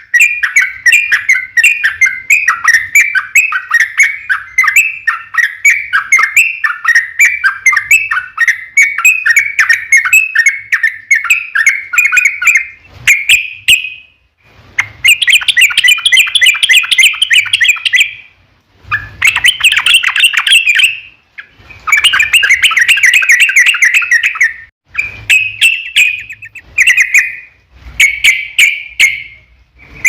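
Yellow-vented bulbul (trucukan) singing loudly: a fast, unbroken run of chattering repeated notes for about the first thirteen seconds, then a series of separate song bursts, each a second or few long, with short pauses between.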